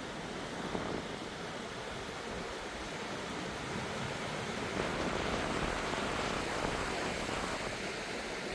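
Ocean surf washing onto a sandy beach, a steady rush of noise that swells a little midway, with wind on the microphone.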